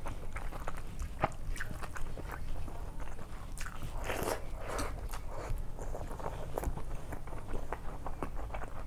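Close-up eating sounds of rice mixed with dal being eaten by hand: wet chewing, lip smacks and small clicks throughout. About four seconds in there is a louder, wetter patch as a handful goes into the mouth.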